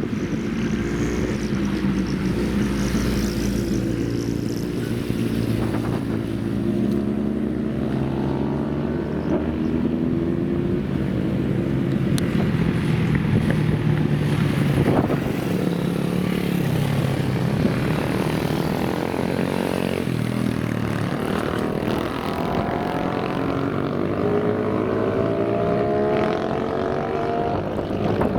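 Older motorcycle engines revving, the pitch climbing and dropping again several times as the throttle is blipped and the bikes accelerate.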